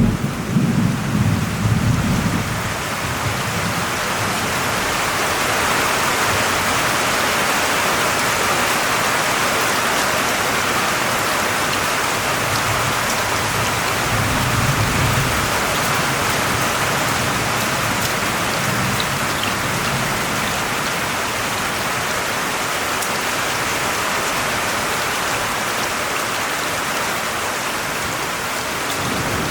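Steady, heavy rain falling, a dense even hiss of drops. A roll of thunder dies away in the first couple of seconds, and a softer, distant rumble swells and fades about halfway through.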